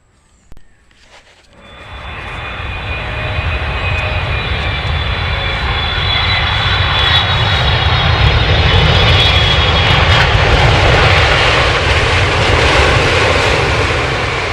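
Aeroplane engine sound played with a toy aeroplane: a deep rumble under a high whine, building up over a couple of seconds, then holding steady before cutting off at the end.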